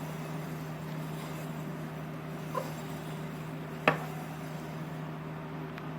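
Harley-Davidson Dyna being rolled backward in neutral, giving one sharp click from the rear drive about four seconds in, with a faint tick before it. The owner suspects the belt tracking on the rear sprocket, since the noise differs going backwards, after he replaced the rear wheel bearings.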